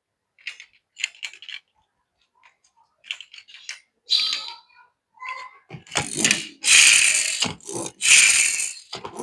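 Light clicks and rattles of small die-cast metal toy cars being handled, then louder bursts of handling noise in the second half.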